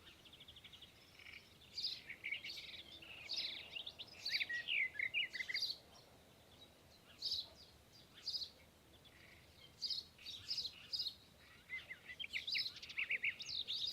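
Birds chirping and calling in bunches of quick, high, swooping notes, with short lulls between.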